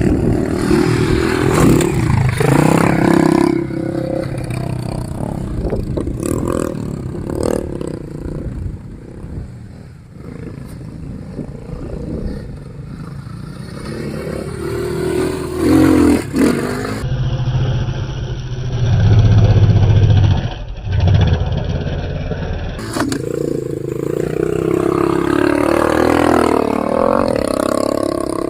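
Motorcycle engine revving in several rising and falling spells, with a few sharp knocks in between.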